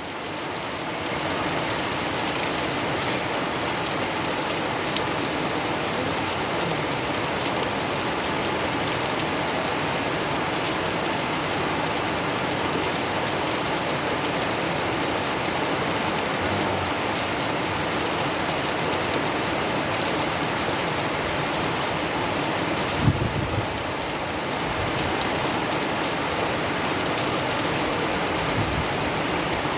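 Steady heavy rainfall pouring down, with one brief knock about three quarters of the way through.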